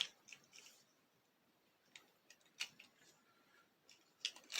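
Scattered light plastic clicks as a Beyblade top is fitted onto and handled on its launcher, which does not hold it. The clicks come in small clusters at the start, about two seconds in and near the end.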